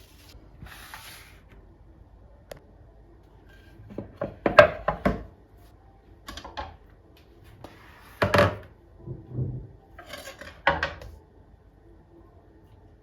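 A run of knocks and thuds from objects being handled and set down, loudest about four to five seconds in, with more around eight to nine seconds and near eleven seconds.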